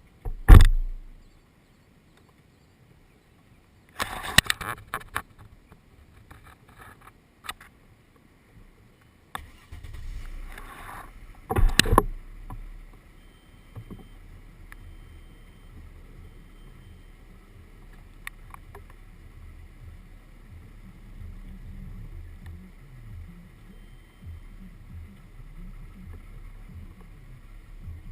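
A few sharp knocks and bumps, the loudest about half a second in and again around twelve seconds, then a steady low rumble from a car, heard through a GoPro housing suction-cupped to its window.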